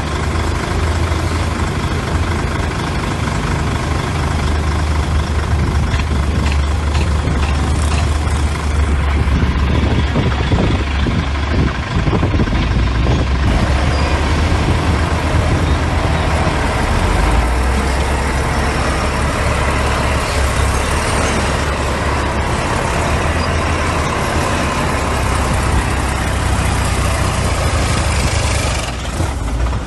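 Heavy diesel engine of construction machinery running steadily, a loud low drone.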